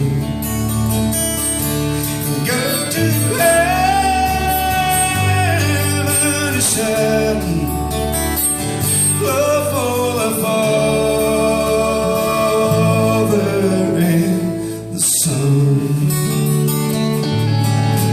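A live band plays a slow country gospel song, with a singer holding two long sung phrases over guitar and bass. Sharp crashes come about a third of the way in and again near the end.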